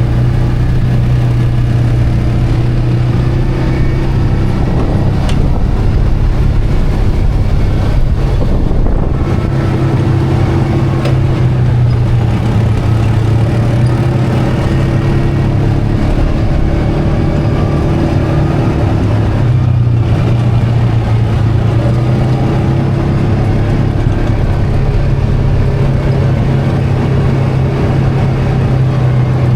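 ATV engine running steadily under way, a constant low drone with little change in speed.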